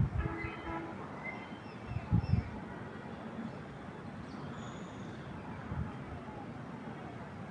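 A vehicle horn sounding and ending about a second in, followed by low wind gusts on the microphone around two seconds in. Under these are a steady background rumble and a few faint bird chirps.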